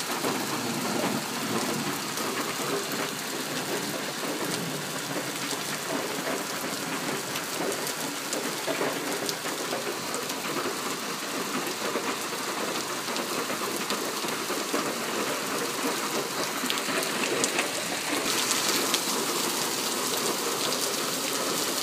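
Heavy downpour of rain and hail pelting down: a steady hiss with many sharp ticks of individual hailstones striking. The hail is giving way to big raindrops, and the hiss grows stronger near the end.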